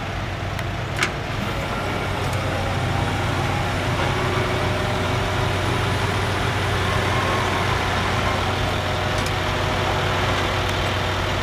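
Six-wheel dump truck's diesel engine running steadily at low revs, with one sharp click about a second in.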